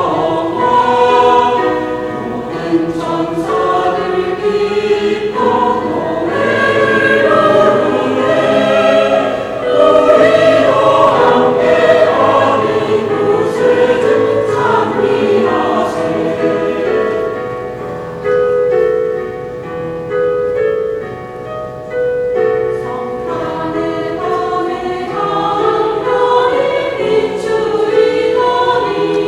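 Church choir singing a Christmas anthem in Korean with instrumental accompaniment, many voices in sustained harmony.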